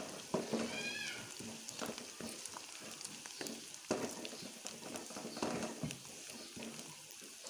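Sliced onions and garlic sizzling in ghee in a nonstick pan, stirred with a wooden spatula that scrapes and knocks against the pan many times. About a second in there is a brief high squeak.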